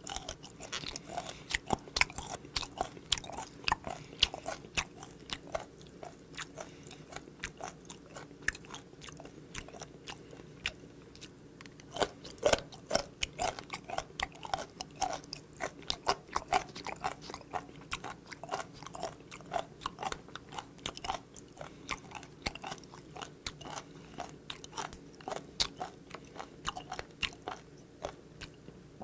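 Close-miked chewing of raw, unfermented skate nose: the cartilage crunches crisply in the mouth as a long run of sharp clicks, with a louder spell of crunching about twelve seconds in.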